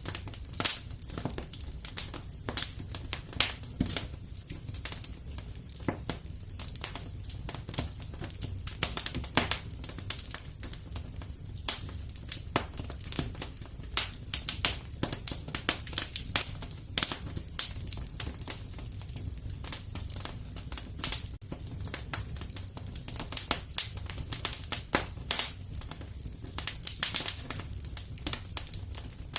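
Fire in a fireplace crackling and popping steadily, with many small irregular snaps over a low, even rumble of the flames.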